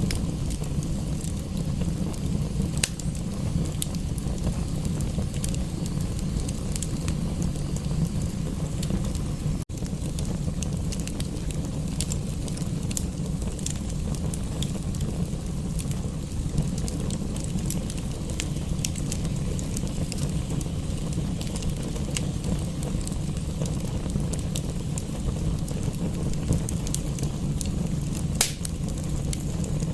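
Wood fire crackling in a fireplace: scattered sharp pops and snaps over a steady low rumble, with a momentary break about ten seconds in.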